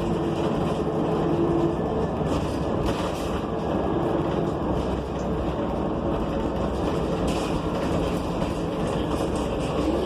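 Cabin ride noise of a New Flyer XN40 city bus under way: its Cummins Westport ISL G natural-gas engine and Allison B400R transmission running over steady road noise, with a few brief rattles. A steady whine fades out about two seconds in and a rising whine starts near the end.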